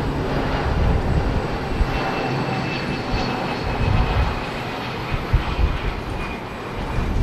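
Jet engines of an Airbus A300B4 freighter: a steady rush of engine noise with a faint whine that drifts slowly lower in pitch.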